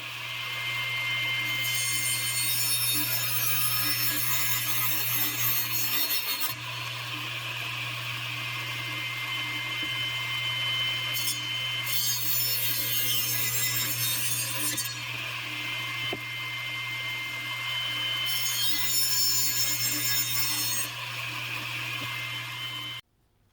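Electric power saw running steadily and cutting through 2x2 wood posts, with three louder cutting passes; it starts and stops abruptly.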